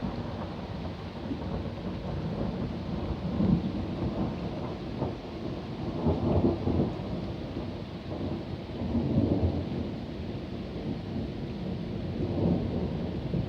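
Thunder rumbling on and on, swelling louder about four times, over the steady hiss of rain.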